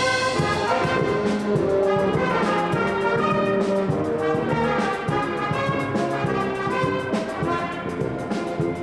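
Brass music playing, with held notes and changing chords.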